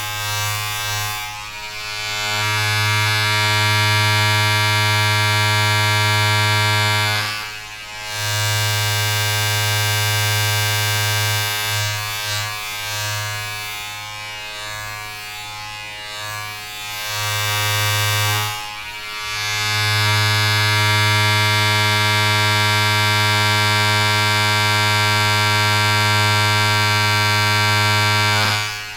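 A steady electric buzz: a strong low hum with many overtones above it. It dips briefly about eight seconds in, again near twenty seconds, and at the very end, and wavers and drops a little in level through the middle.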